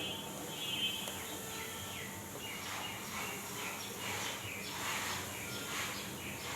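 Birds chirping in short repeated calls over a steady background hum of ambient noise.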